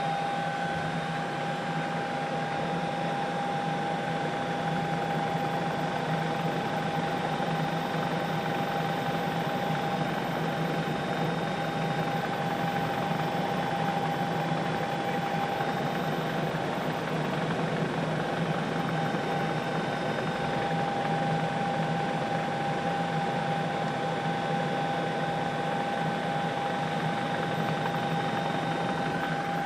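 Steady helicopter cabin noise: turbine and rotor running without change, with a constant whine from the drivetrain over a dense hiss.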